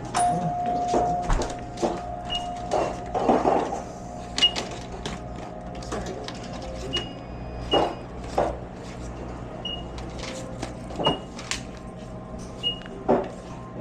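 Shop interior: scattered clatter and knocks with short, high electronic beeps every second or two over a steady low hum.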